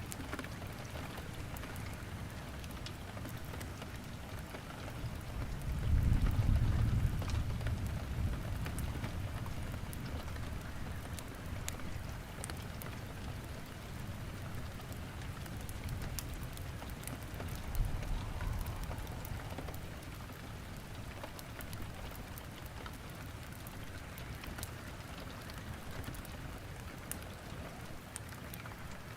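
Steady rain with sharp, scattered crackles of burning firewood in a fireplace. A low rumble swells about six seconds in, the loudest moment, and a smaller one comes at about eighteen seconds.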